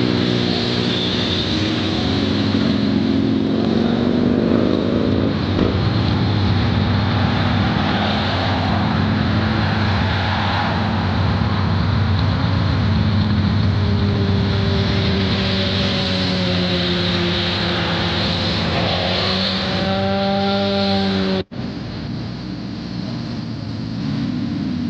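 Motorcycle engines running on the move, with a steady rush of wind and road noise; the engine pitch rises and falls with throttle. The sound cuts out sharply about 21 seconds in and carries on a little quieter.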